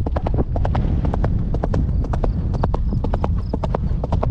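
Horse's hooves clip-clopping, several sharp strikes a second, over a steady low rumble.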